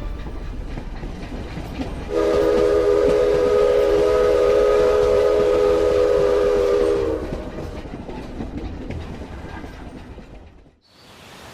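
A train rolling with a steady rumble and clatter. About two seconds in, it sounds one long, several-note horn blast lasting about five seconds, which sags slightly in pitch as it stops. The rumble then fades away and cuts off near the end.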